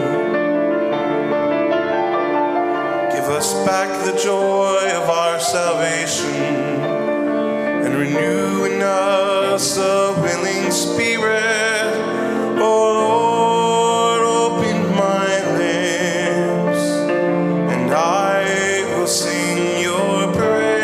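Church music: singing with held, wavering notes over instrumental accompaniment.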